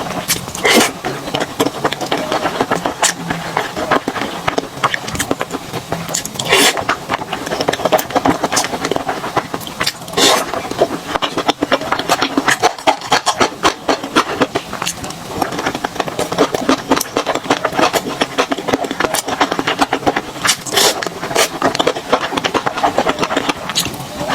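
Close-miked eating sounds: chewing and smacking in dense, rapid crackling clicks, with a few louder bites or crunches now and then.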